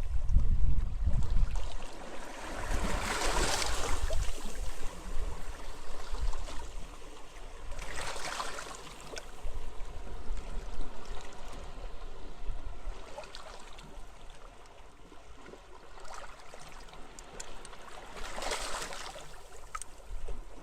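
Small waves washing onto a beach, with wind. The wash swells and falls away about three times, with a low rumble of wind in the first couple of seconds.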